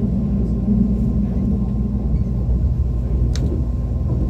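ITX-Maeum electric train running on the line, a steady low rumble with a faint steady tone above it. A single sharp click comes about three seconds in.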